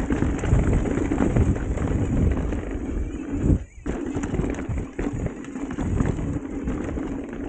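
Mountain bike descending a dirt trail: a constant rattle and clatter of the bike's frame and chain over bumps, tyre noise on the dirt and wind on the microphone, with a short lull a little past the middle.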